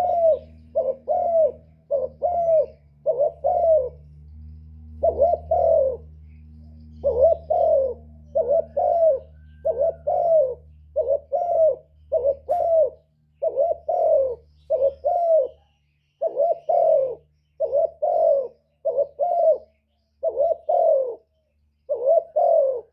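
Spotted dove giving its excited bow-coo ('gù'), short cooing notes mostly in pairs about once a second, the call played to provoke wild doves into answering. A low steady hum sits under the first half and fades out past the middle.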